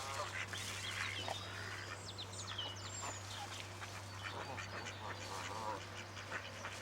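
Ducks calling with scattered quacks, quieter after a burst of livelier calling. A few high thin calls come about two to three seconds in.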